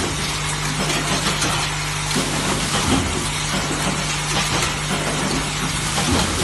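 Semi-automatic spot welding machine running: a steady electrical hum under a constant crackling hiss, with a few short clicks.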